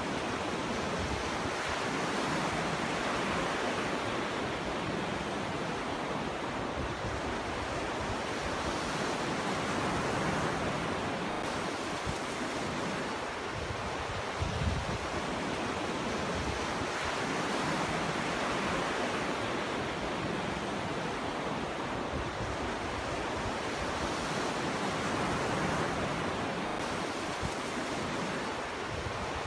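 Ocean waves breaking and washing up a beach, a continuous surf that swells and eases over several seconds, with some wind.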